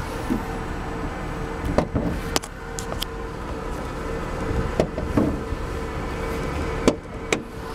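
Steady engine idle, with several sharp clicks and knocks over it, from the hand-built 6.3-litre naturally aspirated V8 of a 2013 Mercedes C63 AMG.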